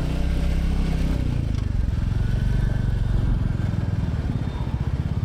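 Royal Enfield Classic 350's single-cylinder engine running on the move; about halfway through the revs fall and the separate beats of the single cylinder come through.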